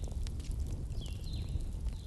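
Wood fire burning: a steady low rumble with irregular sharp crackles and pops, and a few faint, short, high whistles, some falling in pitch, near the start and about a second in.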